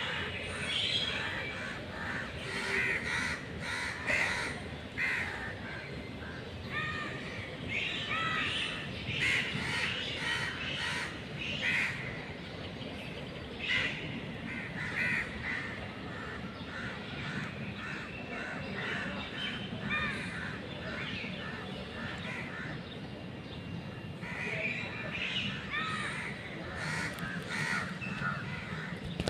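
Crows cawing over and over, several short calls at a time and often overlapping, with a steady background hiss beneath.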